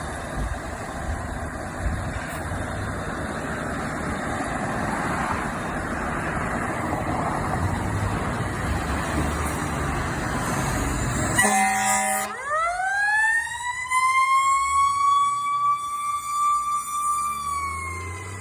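Fire engine's heavy engine running loud with a low rumble, then a short horn blast about two-thirds of the way in. A siren follows, rising to a steady high wail and starting to fall near the end.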